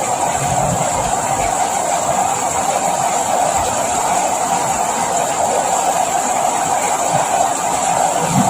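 Steady, even rain noise, a dense hiss with a few faint low thumps.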